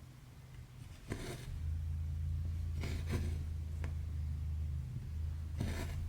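Cotton embroidery floss being drawn through cross-stitch fabric, a short rasping swish every couple of seconds, four in all, over a steady low hum.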